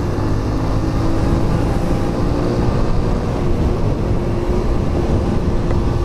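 Motorcycle engine running at a steady cruise with road and wind noise, a steady hum over an even rumble.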